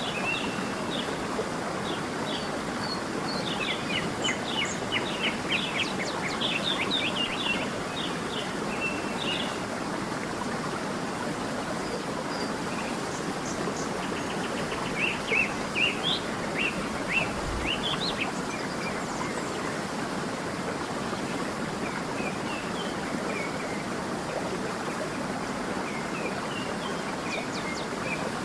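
Small songbirds chirping and trilling in quick runs of short notes, busiest twice in the middle, over a steady rush of flowing water.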